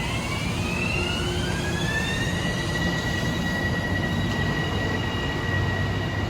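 Metro-North M7A electric multiple-unit train pulling away. Its traction motors whine in several tones that rise in pitch over about two seconds as it accelerates, then hold steady over the low rumble of the train on the rails.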